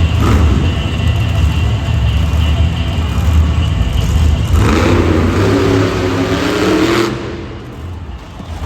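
Monster truck engine running loud with a deep rumble, revving hard from about four and a half seconds in, then dropping off near seven seconds.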